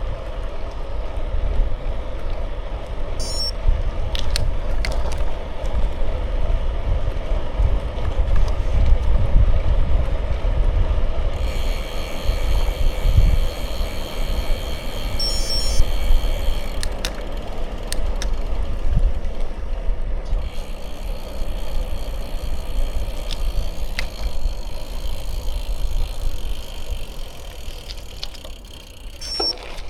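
Riding a bicycle: wind rumbling on the microphone over the hiss of the tyres rolling along, with a higher-pitched hum joining in twice, for several seconds each time.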